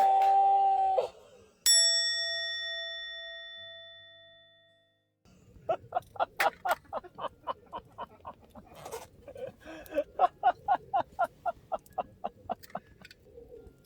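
A single bell-like ding, struck once a little under two seconds in and ringing out as it fades, followed after a short gap by a long run of quick, evenly paced clicks, about three to four a second, that stops shortly before the end.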